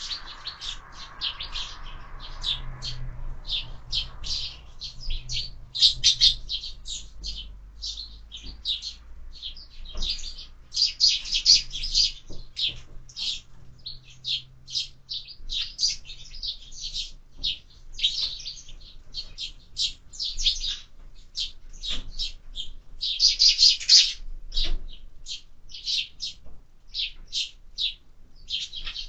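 Sparrows chirping continuously, many short, rapid chirps from several birds overlapping, with busier flurries of chatter every few seconds.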